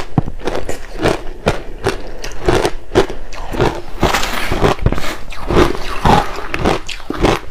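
Crushed ice being bitten and crunched in the mouth close to the microphone: a rapid run of sharp crunches, several a second, with a denser spell of crackling about four seconds in.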